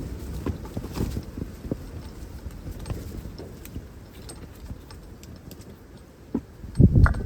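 Strong gusty wind buffeting the microphone as a low rumble, with irregular light taps and knocks. A heavy low thump from a gust comes near the end.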